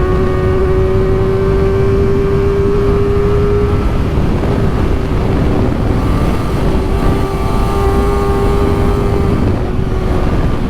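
Kawasaki Ninja ZX-4RR's 399 cc inline-four running at high revs under steady throttle, its note held almost level and rising slightly in the first few seconds, over loud wind and road rush on the helmet microphone.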